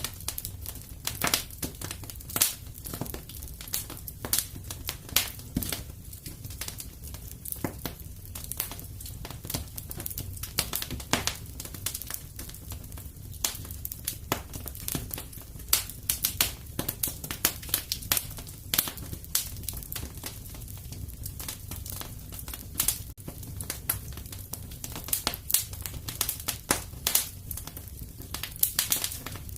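Wood fire crackling in a fireplace: irregular sharp pops and snaps, several a second, over a steady low background of the burning fire.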